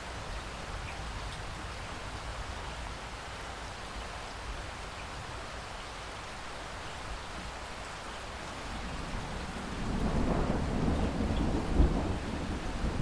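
Steady rain falling. About nine seconds in, a low roll of thunder builds and rumbles on to the end, with a sharp loud crack near the end.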